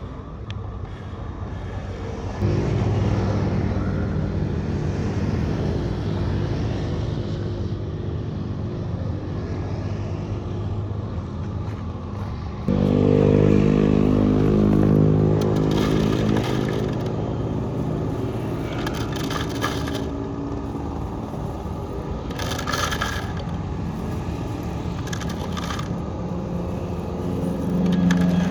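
Electric drive motor and gearbox of a Huina 1536 radio-controlled dump truck whining steadily. It starts a couple of seconds in and gets louder and higher about halfway through. Over the second half it comes with repeated short scraping and knocking noises.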